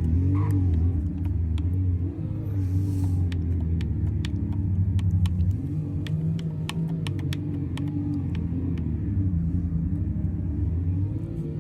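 Truck engine running with a deep, steady rumble, its pitch rising and falling slightly with light throttle blips. Scattered sharp clicks sound over it.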